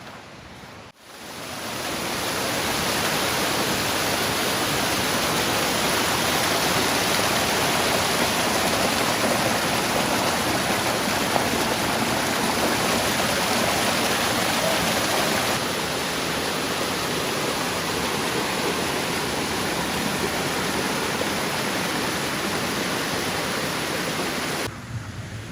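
Waterfall: a steady, loud rush of falling water. It comes in after a brief dropout about a second in and then holds level, with a slight drop later on.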